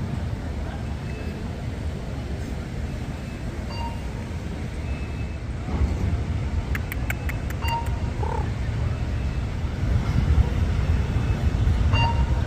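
Sparrows chirping faintly, short high chirps scattered through, with a quick run of about seven clicks about seven seconds in, over a steady low background rumble.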